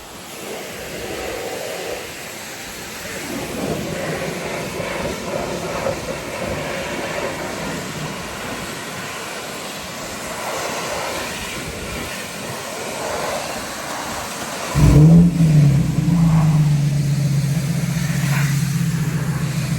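A car engine starts about fifteen seconds in with a sudden loud burst, the pitch swings briefly, and it settles into a steady idle. Before that, a steady rushing hiss.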